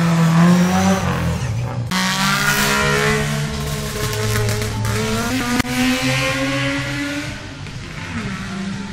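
Lada rally car's engine accelerating hard, its pitch climbing and dropping back as it shifts up, about two seconds in and again around five and a half seconds. It grows fainter toward the end.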